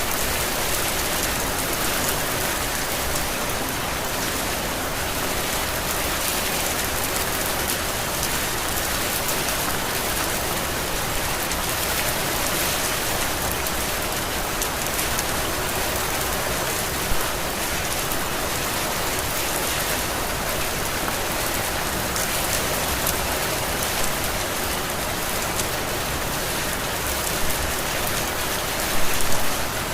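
Steady heavy rain falling and pattering on surfaces, an even dense hiss, with a few brief louder drops or taps, the loudest cluster near the end.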